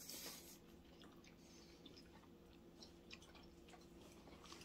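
Faint chewing of a mouthful of pizza crust, with a short rustle of the bite being taken at the start and small wet clicks after it. A low steady hum sits underneath.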